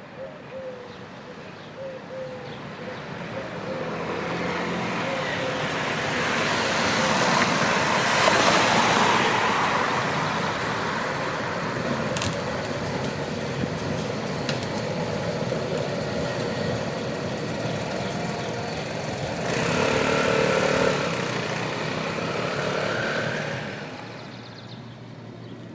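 A tram running past and through the loop. Its noise grows over several seconds, holds, and then fades away. About twenty seconds in there is a louder stretch with a few steady tones.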